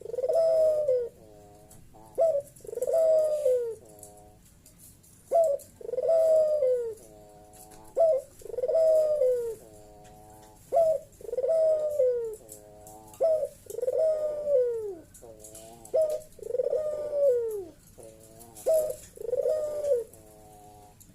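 Puter dove cooing its loud 'bekur' call over and over, each a short note followed by a longer falling coo, about one call every two and a half seconds.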